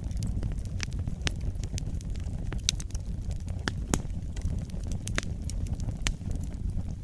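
Wood fire burning with irregular sharp crackles and pops from the burning logs over a steady low rumble of the flames.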